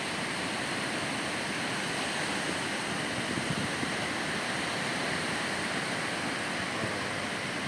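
Ocean surf breaking and washing on a sandy beach, a steady rushing noise.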